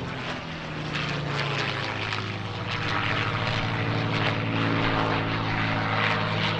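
A P-51 Mustang's Rolls-Royce Merlin V12 flying a display pass. The propeller and engine note drops in pitch about two seconds in and grows steadily louder as the aircraft comes closer.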